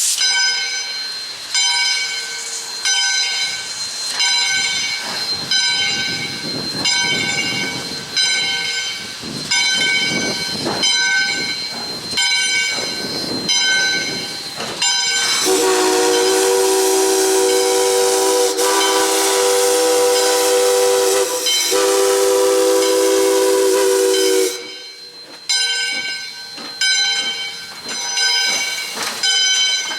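Steam locomotive's bell ringing about once a second over hissing steam. About halfway through, the steam whistle sounds one long blast of roughly nine seconds with a brief break, then the bell rings on.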